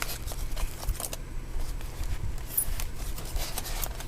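Cardboard box and packing material being handled, with scattered light clicks and short rustles over a low steady hum.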